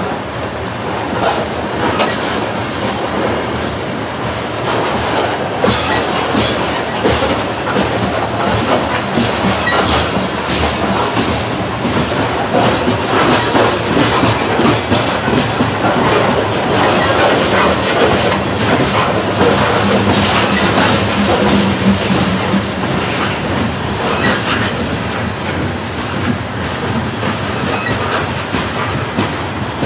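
Loaded coal cars of a long freight train rolling past close by: steel wheels rumbling along the rail and clacking steadily as each truck goes over.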